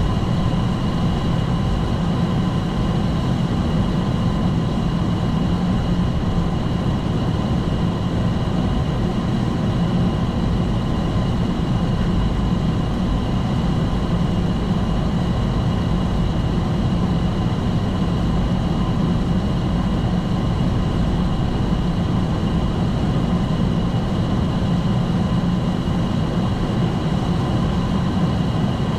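Steady flight-deck noise of a Boeing 757-200 Freighter: a low engine and airflow rumble with a few thin, steady high tones, unchanging throughout.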